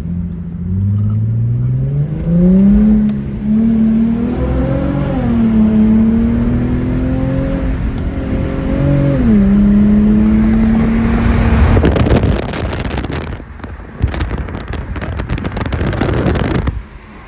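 Infiniti G35x's 3.5-litre V6 through an ISR single-exit aftermarket exhaust, accelerating with the car in sport mode. The pitch climbs over the first two seconds, wavers, then drops about nine seconds in, as at an upshift. From about twelve seconds a loud rushing noise covers it, and it cuts off just before the end.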